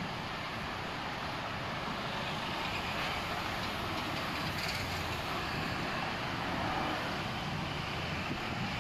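Steady outdoor background noise, a continuous rumble and hiss with no distinct events, most like street traffic.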